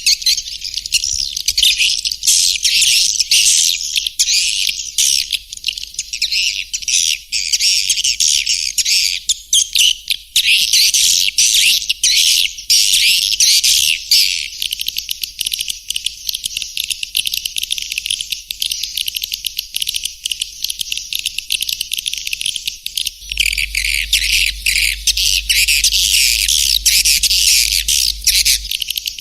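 Swiftlet call recording: a dense, continuous twittering of many high, rapid chirps, the lure sound played to draw edible-nest swiftlets into a nesting house. A low hum joins for the last several seconds.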